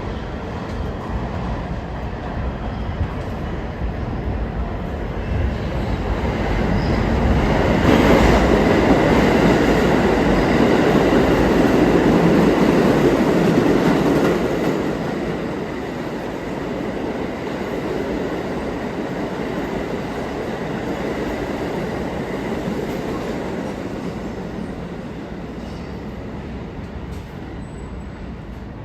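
New York City subway train running through an underground station: a rumble that builds to its loudest about eight seconds in, stays loud for several seconds, then fades.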